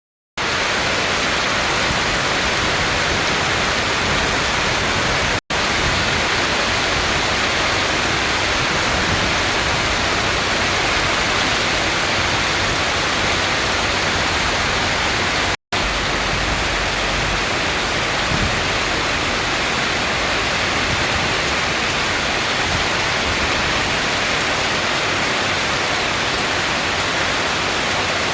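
Heavy rain pouring down in a steady, dense hiss, cut twice by a split-second silence.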